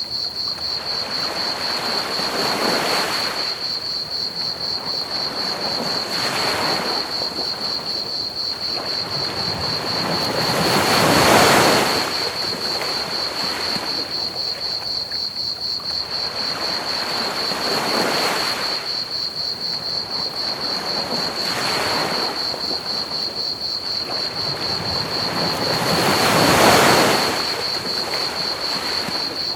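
Ocean waves breaking and washing up on a beach, swelling and fading every three to six seconds, with the biggest surges about a third of the way in and near the end. A steady, high-pitched cricket trill runs underneath throughout.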